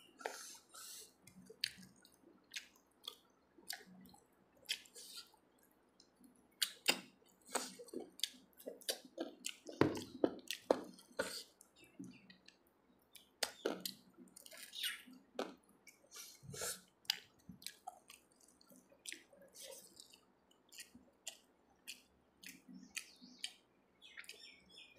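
A person eating rice and chicken curry by hand, close to a clip-on microphone: irregular wet chewing and mouth smacks, many short clicks throughout.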